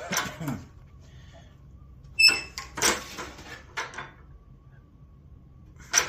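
Sheet metal and a hand sheet metal brake clanking and rattling as a panel is cross-braked, five or so sharp metallic knocks. About two seconds in, one strike rings like struck sheet steel.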